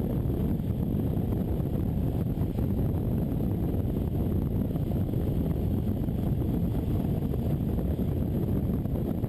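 Triumph Explorer XCA's three-cylinder engine with an Arrow exhaust running steadily, a low, even rumble with no revving.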